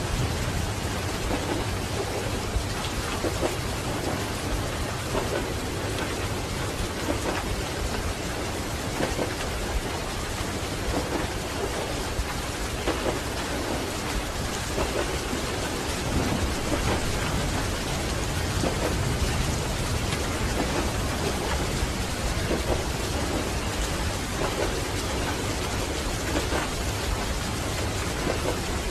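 Steady rain on a train window over the low, continuous rumble of a train running along the track.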